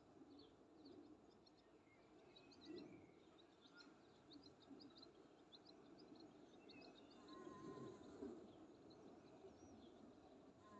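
Faint birdsong: many short, high chirps from small birds over a low, steady background hiss.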